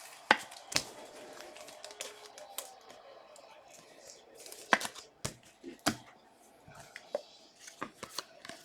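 Trading cards and pack wrappers being handled on a table: scattered sharp clicks and taps with light rustling between them.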